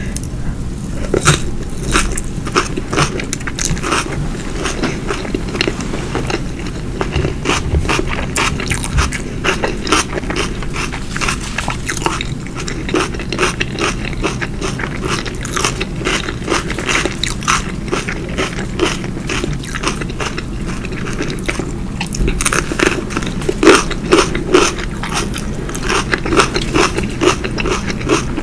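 Close-miked chewing and biting of food, a steady run of crunchy, clicking mouth sounds.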